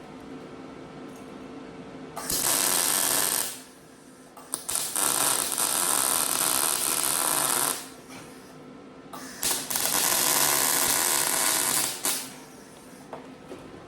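MIG welder laying beads on the sheet-metal seams of a homemade muffler: three runs of steady crackling and sizzling, each a few seconds long and stopping abruptly, the middle one the longest.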